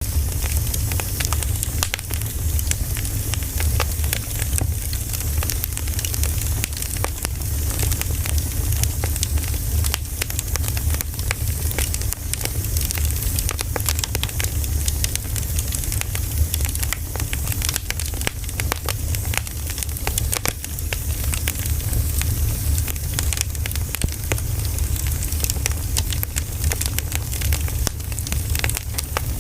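Wood campfire burning, with constant irregular crackling and frequent sharp pops over a steady low rumble.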